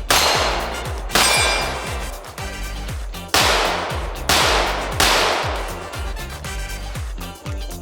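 Five 9mm pistol shots from a ported Glock 17 at an unhurried, uneven pace. Each is followed by the ringing clang of a steel target being hit.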